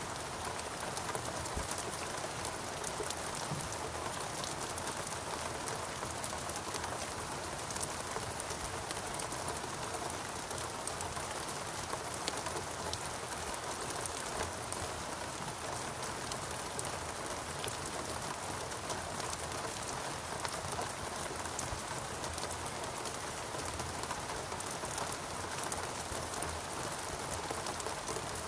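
Steady rainfall in a rainforest, a dense even hiss of rain with many small individual drop impacts throughout.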